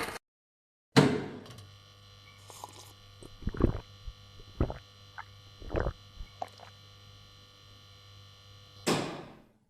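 A sharp thump about a second in, then scattered knocks and clicks over a faint steady hum, and another thump near the end.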